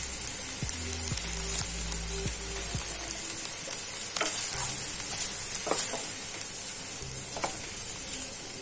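Squid stir-frying in a hot pan, sizzling steadily, with a few sharp scrapes and taps of a wooden spatula stirring it.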